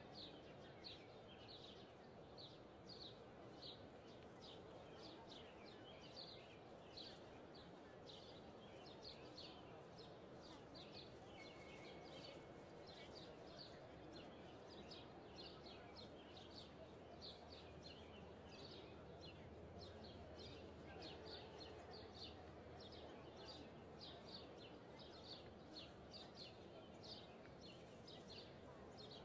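Small songbirds chirping repeatedly, short high chirps about twice a second, over a faint steady hiss of outdoor ambient noise.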